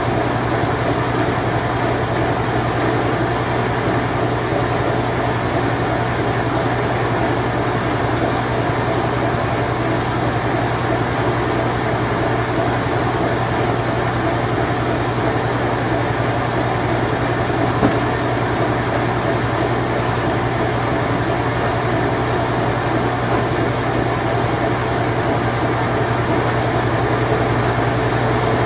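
Late-1980s Whirlpool Imperial Clean Touch top-load washing machine running steadily on its spin cycle: a constant low hum over an even whirring rush, with a single faint tick about 18 seconds in.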